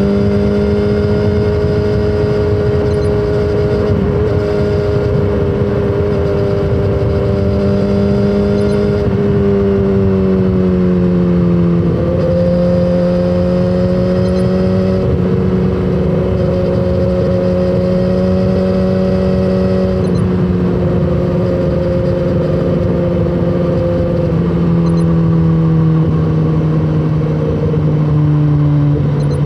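BMW S1000RR inline-four engine running under load while riding, its exhaust note holding fairly steady with a few small shifts in pitch as the throttle changes, over low wind and road rush.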